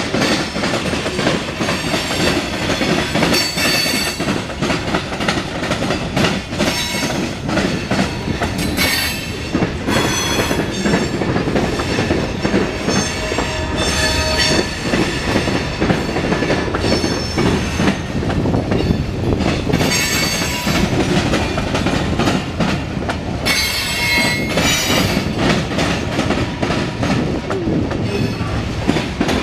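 Freight cars of a CSX mixed freight train rolling past with a steady rumble and wheel clatter, broken by several high-pitched wheel squeals that come and go as the train takes the curve from southbound to westbound.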